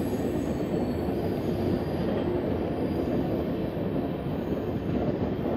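Passenger train running on the track as it takes a curve: a steady rumble of wheels and coach.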